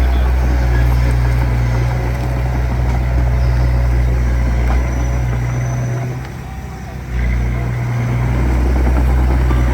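Heavy diesel engine of earthmoving equipment running steadily under load. Its level drops off briefly about six seconds in, then picks back up.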